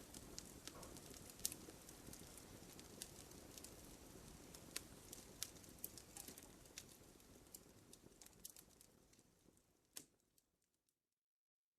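Wood fire crackling, with scattered sharp pops and snaps over a low, steady rush of flame. It fades out near the end, with one last louder pop just before it goes quiet.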